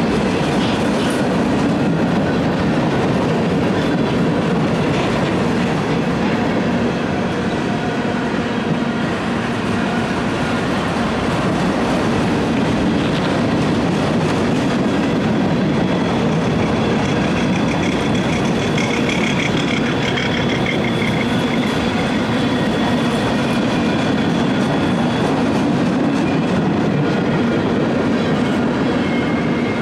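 Freight train cars rolling past at steady speed, a continuous rumble of steel wheels on rail with some clickety-clack.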